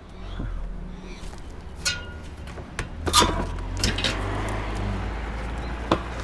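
Scrap being handled: a series of sharp knocks and clanks, the loudest a little after three seconds in, over a low steady rumble.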